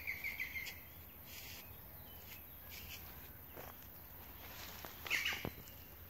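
A bird calls with a quick run of chirps at the start and another short call about five seconds in, over the steps of someone walking a woodland trail.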